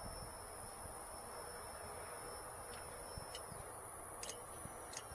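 Faint steady high-pitched insect chirring, with a few small clicks from about three seconds in.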